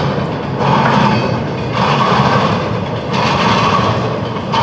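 Freight train's cars rolling past, the wheels clattering in a steady repeating rhythm that swells about every second and a quarter.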